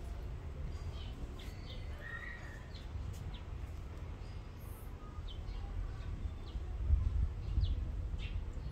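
Scattered short, faint chirps of small birds over a steady low rumble.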